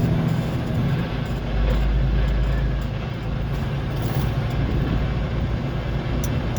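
Road vehicle driving, heard from inside the cab: a steady low engine rumble with road noise.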